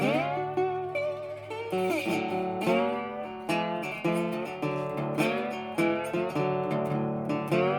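Background music of plucked acoustic guitar in a steady rhythm, with notes bent or slid upward near the start and again about two seconds in.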